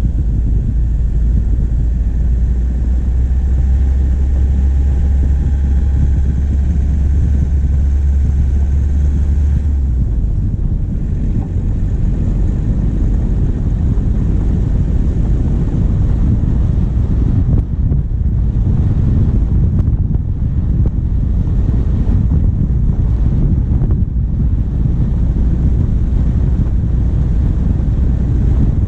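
Diesel vehicle engine running, picked up by a bonnet-mounted camera, with wind noise on the microphone. The steady low drone changes about ten seconds in, after which the wind rush is rougher and more uneven.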